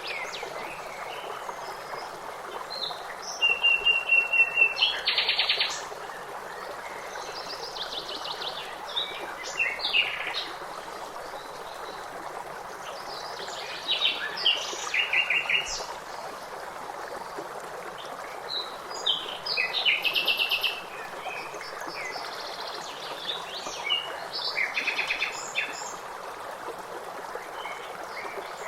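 Songbirds chirping and trilling in short, repeated phrases over a steady rush of flowing water. The loudest bird burst comes a few seconds in.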